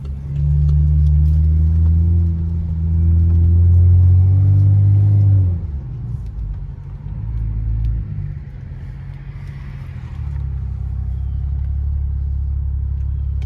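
Straight-piped exhaust of a BMW F10 sedan droning low and loud under steady throttle, then dropping off about five and a half seconds in as the driver lifts, and settling into a quieter, steady drone.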